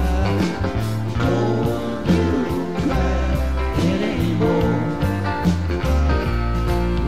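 Rock band playing: electric guitar lines bending and winding over bass and drums, with no words sung here.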